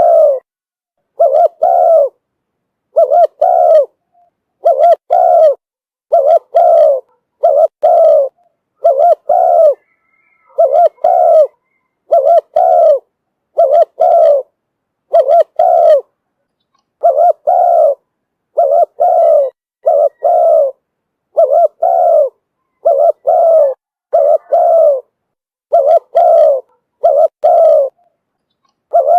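Spotted dove cooing: a decoy bird's call, loud and repeated over and over, the coos often coming two close together with short pauses between.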